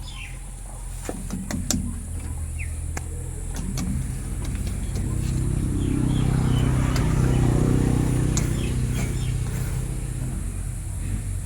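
Farm machine engine running steadily, growing louder for a few seconds around the middle and then easing back, with a few sharp clicks over it.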